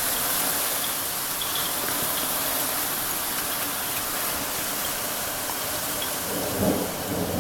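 Heavy rain and hail pouring down in a steady hissing rush.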